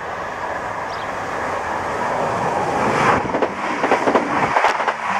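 A train passing through a station: a steady running noise builds up, then from about three seconds in the wheels clatter over the track in a rapid run of knocks and clicks.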